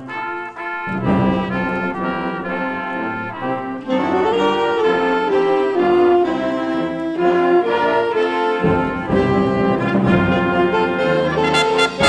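Concert band playing holiday music, with brass leading in held chords that change every second or so over a low bass line.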